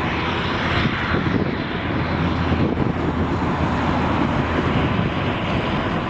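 Steady jet engine noise from a Boeing 777-300ER's two GE90 turbofans as the airliner comes in to land.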